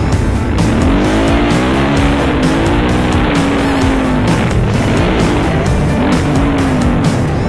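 Motocross dirt bike engines revving, the pitch rising and falling again and again as the throttle is worked.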